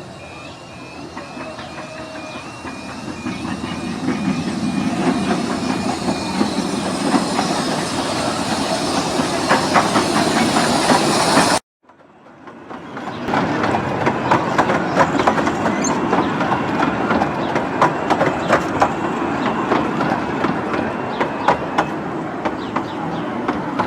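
Romney, Hythe and Dymchurch Railway miniature train running along the track, wheels clicking over the rail joints, growing louder over the first few seconds as it approaches. The sound cuts out abruptly about halfway through and comes back a second later.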